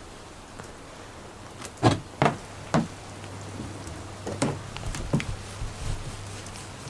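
A few sharp, irregular knocks, about six in all, the loudest about two seconds in, over a steady hiss of falling rain and a low hum.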